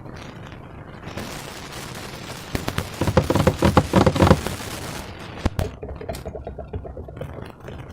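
Slime being squished and worked by hand, a dense run of wet crackling clicks from popping air pockets, loudest about three to four seconds in.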